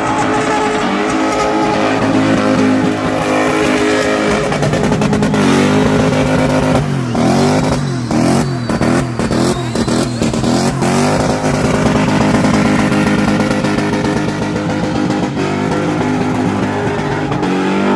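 Car engine held at high revs during car spinning, its pitch rising and falling repeatedly around the middle as the throttle is worked.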